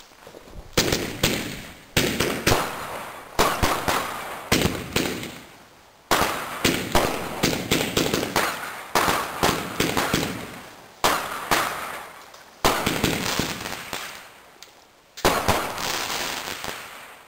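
Comet / Black Cat 'Arctic Fire' firework battery firing shot after shot, about ten loud reports one to two and a half seconds apart. Each report is followed by a run of crackling that dies away.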